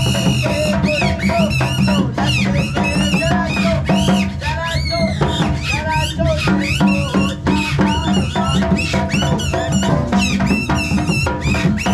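Rajasthani folk music: a drum beats a fast, steady rhythm under a high, warbling melody that bends up and down.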